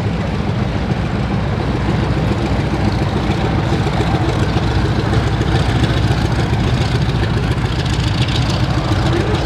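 Piston warbird aircraft engines running steadily at low power on the ground, a deep, even rumble.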